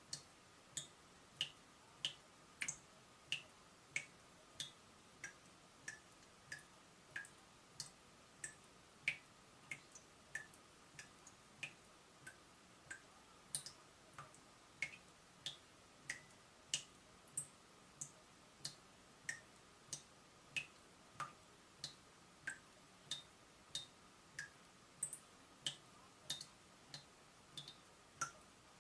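Water dripping from a leaking tap, a steady run of drops about three every two seconds, each a short plip whose pitch changes from drop to drop. A faint steady hum sits underneath.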